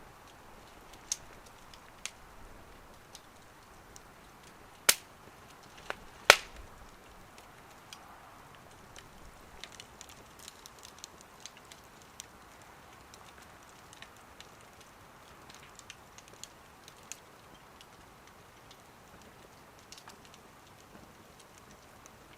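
Wood fire burning in a small wood stove, crackling with scattered sharp pops and ticks over a soft hiss; two louder pops come about a second and a half apart, around a quarter of the way in.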